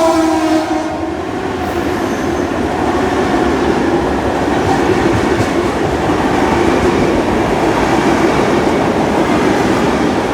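A train passing close by, its wheels and cars rolling past in a steady rumble with some clickety-clack. The last of its horn cuts off about half a second in.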